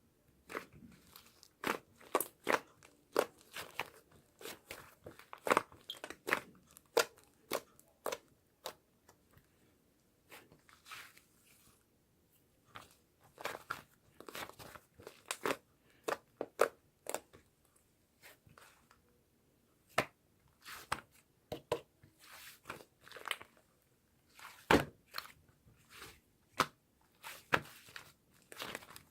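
Irregular, sharp crunching and crackling close to the microphone, many snaps a second, with a couple of short lulls.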